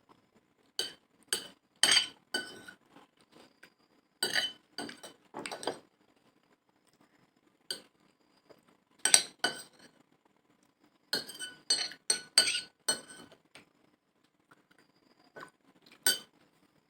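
A spoon clinking and scraping against a dish while chotpoti is eaten: groups of sharp clinks with a short ringing tone, several in quick succession, with pauses between the groups.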